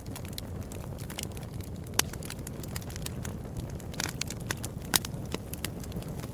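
Wood fire burning in a fireplace: a steady low rumble of the flames with constant crackling, and two louder pops about two seconds in and near five seconds.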